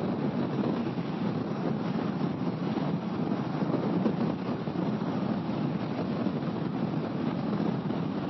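Steady wind rush mixed with engine and road noise from a Kawasaki ER-6f motorcycle being ridden at a constant pace, with no clear gear changes or revving.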